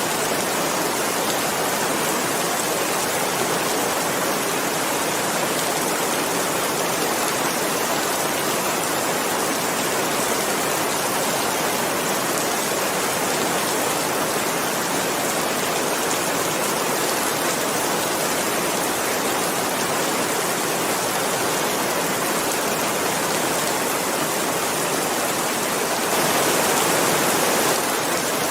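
Steady heavy rain falling, a dense even hiss with no distinct drops standing out, swelling slightly louder for a moment near the end.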